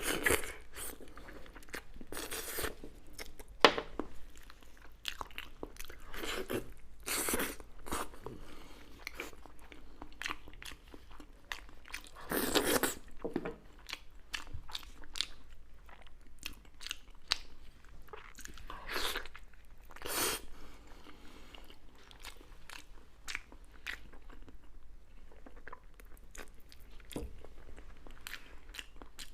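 A person biting and chewing crunchy food close to the microphone: irregular crunches and smacks, with a handful of louder bites spread through.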